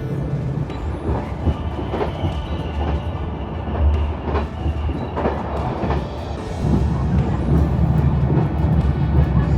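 Train running on the rails: a steady low rumble with scattered clicks from the wheels over rail joints.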